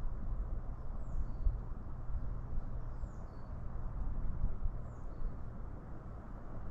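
A small songbird repeating a short high call, a quick falling note then a lower short note, about every two seconds, over a steady low rumble.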